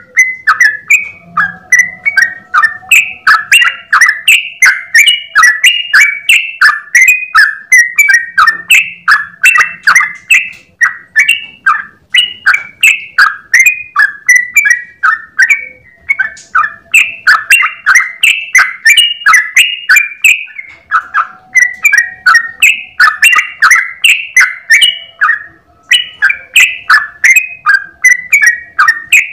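Yellow-vented bulbul (trucukan) singing its long 'ropel' song: a fast, unbroken run of loud bubbling, chirping notes, about three a second, pausing only briefly a few times.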